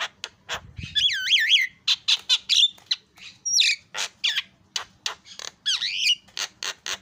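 Javan myna singing: a fast run of short, harsh, clicking notes, broken by curving whistled glides about a second in, near the middle and again near the end.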